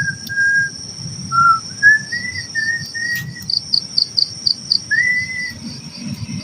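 Night insects, crickets, trilling steadily with a fast pulsing chirp, over a series of short whistled notes, some rising and some held level, with pauses between them.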